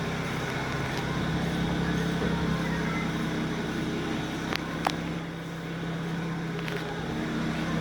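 BMW 335i N54 twin-turbo straight-six idling steadily through a catless exhaust with the muffler straight-piped, with two short clicks a little past halfway.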